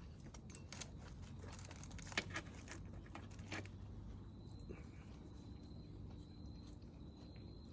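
A few light clicks and taps in the first half, then an insect, cricket-like, trilling in a steady high pitch in repeated stretches from about halfway through.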